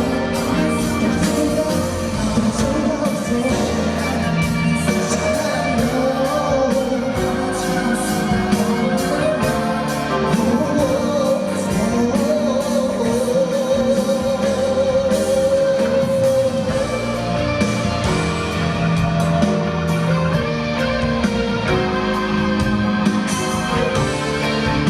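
Live concert recording of a male pop singer with band backing and guitar. About halfway through, the singer holds a long note with vibrato.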